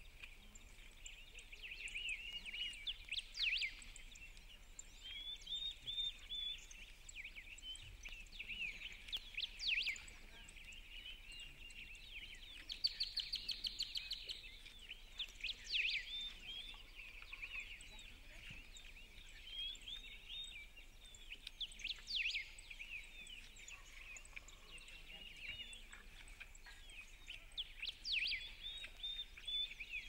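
Songbirds singing, short chirping phrases overlapping and repeating throughout, with a fast trill of rapidly repeated notes about halfway through.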